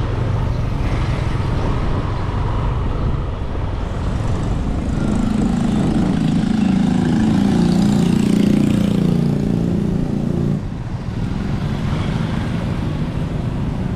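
Motorcycle engine running as the bike is ridden through town. A louder, deeper engine drone comes in about five seconds in and cuts off suddenly about ten and a half seconds in.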